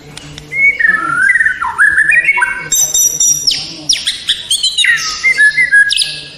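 White-rumped shama (murai batu) singing a long, varied song of loud whistles and warbles that slide up and down, turning to higher, sharper notes about halfway through.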